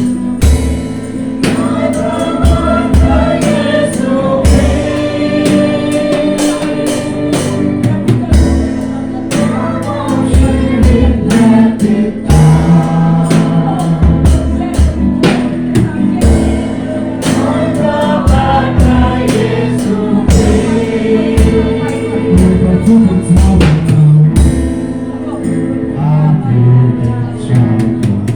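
A Christian worship song played live: singing over a band with a drum kit keeping a steady beat.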